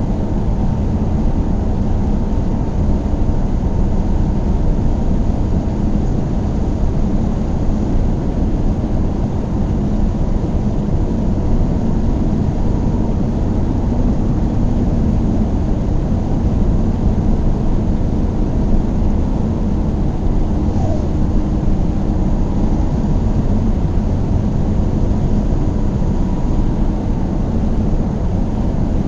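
Car driving at a steady speed: a steady low rumble of engine and tyre noise on the road.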